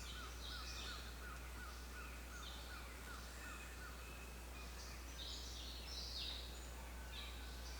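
Birds calling outdoors: a quick run of short repeated notes, about four a second, fading out about three seconds in, with scattered higher calls later, over a steady low hum.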